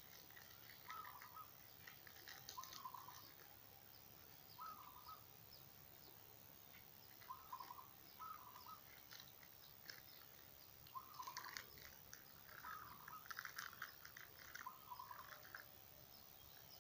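Faint bird calls: short notes repeated in small groups, busiest near the end, with soft crackling clicks in between.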